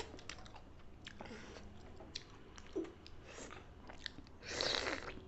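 Close-miked chewing and eating: wet mouth clicks and smacks with small crunches. A louder rush of noise comes for about half a second near the end.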